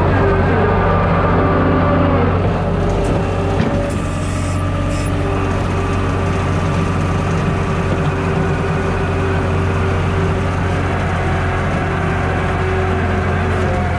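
Skid steer loader's diesel engine running steadily under work, its note easing slightly about two and a half seconds in.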